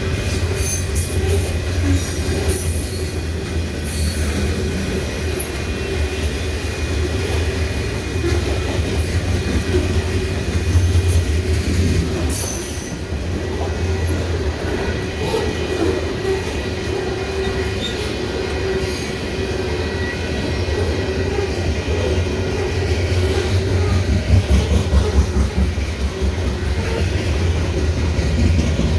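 Freight cars rolling past: a steady rumble of steel wheels on rail, with clicks and clatter over the rail joints and a thin, faint wheel squeal.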